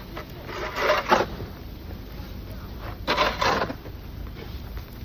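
Snow shovel scraping and pushing snow, two strokes a couple of seconds apart.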